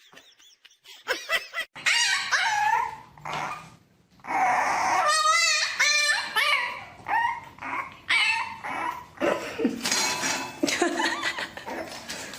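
A dog whining and yipping in a run of short, high-pitched, wavering cries, after a quiet first second and with a brief pause about four seconds in.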